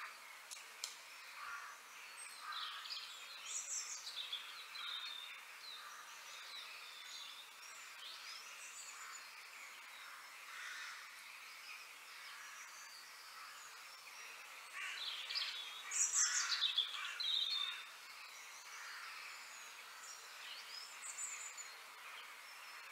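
Birds chirping and calling in short, sweeping notes, with a louder run of calls about two-thirds of the way through.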